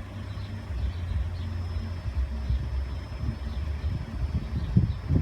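A road vehicle's engine idling with a steady low rumble, with a few low thumps near the end.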